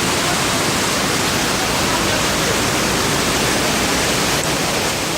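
Heavy rain and rushing rainwater: a loud, steady, even noise with no breaks.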